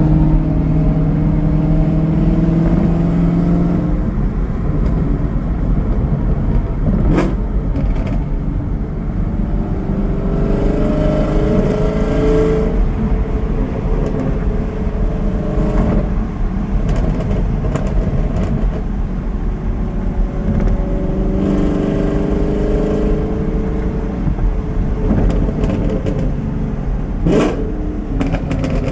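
Chevrolet Camaro SS 1LE's 6.2-litre LT1 V8 running through catless headers, an X-pipe and the factory NPP exhaust, its note climbing and falling back three times as it revs. Two sharp cracks from the exhaust, about seven seconds in and again near the end, among the burbles.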